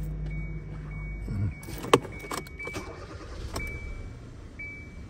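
2016 Kia Soul being started, heard from close by: a steady low hum stops about a second and a half in, a sharp click follows, and a high warning chime beeps about once a second.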